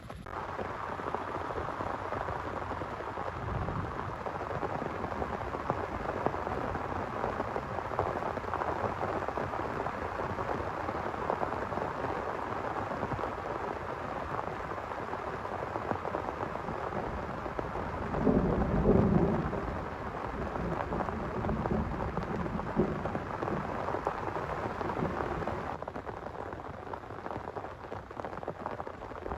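Heavy rain falling steadily, with a low roll of thunder about two-thirds of the way through that is the loudest moment, and a fainter rumble a few seconds in.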